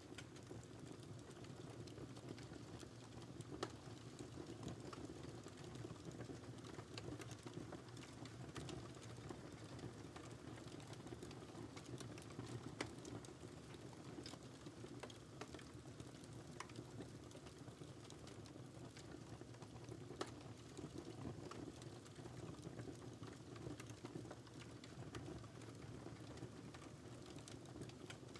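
Wood fire crackling in a fireplace: a soft, steady low rumble of flame with irregular small snaps and pops, and a few louder pops scattered through.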